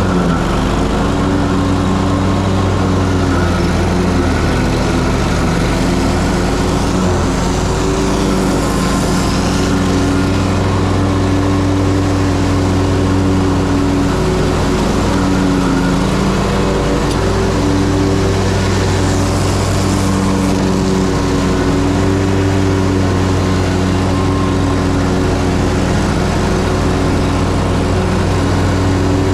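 Ferris Z3X zero-turn mower's 37 hp engine running steadily at mowing speed, its pitch dipping and recovering slightly under load as it cuts overgrown grass. A hiss swells briefly twice, about eight and nineteen seconds in.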